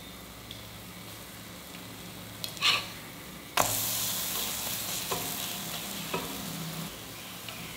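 Banana thalipeeth frying in oil on a cast-iron tawa: a faint steady sizzle, then a metal spatula scraping under it about two and a half seconds in. At the flip, about three and a half seconds in, a sudden much louder sizzle starts as the raw side meets the hot pan, fading slowly, with a couple of light spatula taps after.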